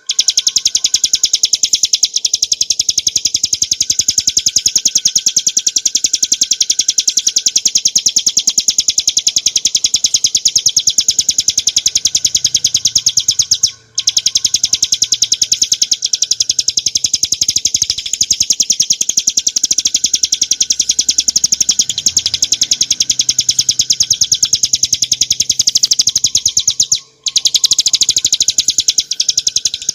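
Ciblek gunung, a small prinia, singing a loud, very fast trill of high notes, held almost without pause and broken only twice by brief gaps.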